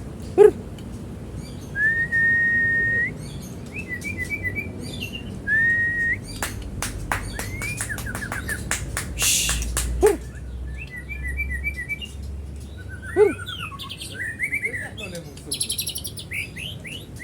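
Young white-rumped shama (murai batu) singing a varied song: clear whistles each held about a second, fast trills and runs of chirps, high buzzy notes, and a few sharp loud notes. Its repertoire mixes in imitations of other birds' songs, such as canary and lovebird.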